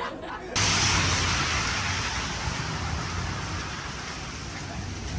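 Heavy rain falling steadily with a low rumble beneath it, starting abruptly about half a second in and easing slightly toward the end.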